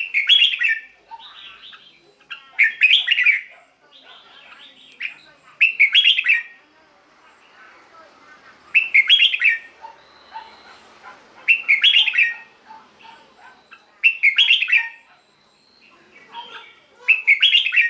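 Red-whiskered bulbul singing: seven short, loud, warbled song phrases about three seconds apart, with quieter chirps between them.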